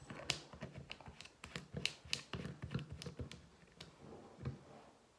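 Irregular light clicks and taps of small plastic items being handled, several a second, thinning out near the end.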